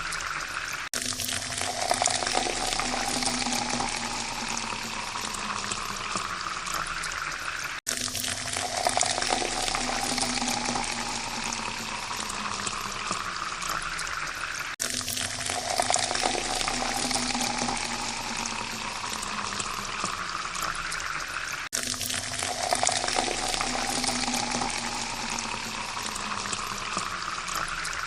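Water pouring into a glass, its pitch rising steadily as the glass fills. The pour restarts abruptly about every seven seconds, four times over.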